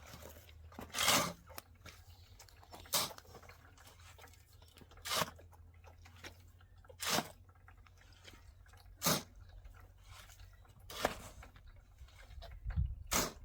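Short crunching strokes repeating steadily about every two seconds, seven in all, over a faint low hum.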